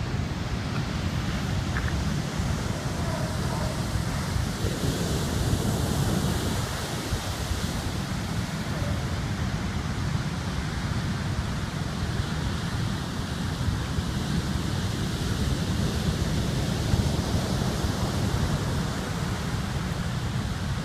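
Typhoon wind buffeting the microphone over heavy surf breaking on the beach: a steady, churning roar of wind and waves.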